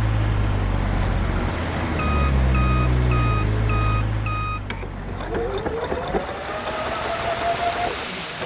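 Vehicle sounds: a low, steady engine-like hum with five evenly spaced beeps of a reversing alarm over it, about half a second apart. Then, about five seconds in, a rising whine comes in with a hiss.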